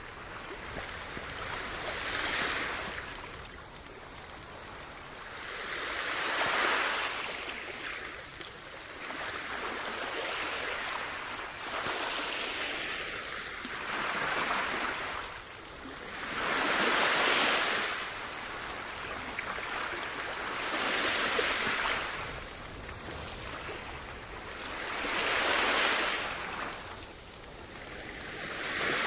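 Sea waves breaking and washing up a beach, each surge swelling and falling back every three to four seconds.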